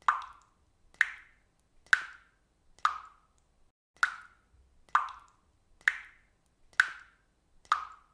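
Water dripping from a faucet: nine single plopping drops, one a little under a second apart in a steady rhythm.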